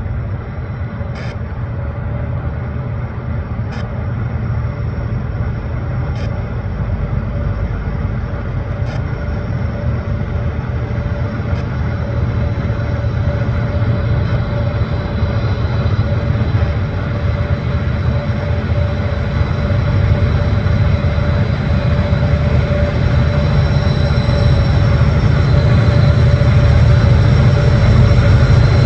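Diesel-electric freight locomotives, an EMD SD70MAC leading two GE units, working a heavy intermodal train up a steep grade. A deep engine rumble with a steady hum grows steadily louder as the train approaches. Faint clicks sound every couple of seconds in the first part, fading out.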